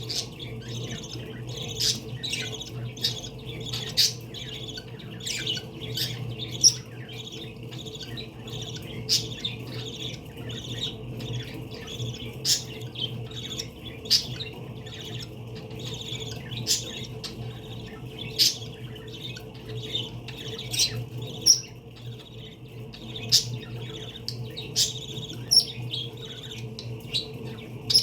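Pet parakeets chirping and squawking, many short sharp calls coming every second or so, over a steady low hum.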